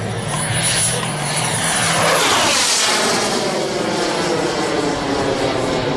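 Large radio-control model airplane flying past, its engine and propeller getting louder toward the middle and then dropping in pitch as it goes by.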